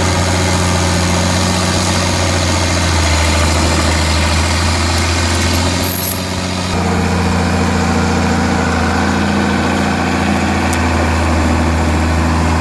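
Tractor engine running steadily while working a stump-removal attachment, with a sudden shift in its note about seven seconds in.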